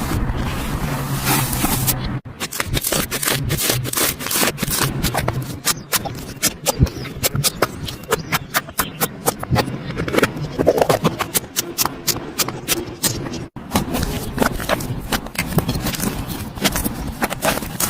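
Slime being squished and worked, with dense, irregular sticky clicks and crackling pops.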